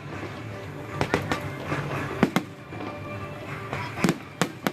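Aerial fireworks bursting in a string of sharp bangs, several in quick pairs, over background music.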